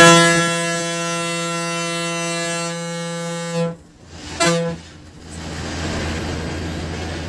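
Bus horn heard from inside the cab: one long steady blast of about three and a half seconds, then a short second toot. The bus's low running hum returns after.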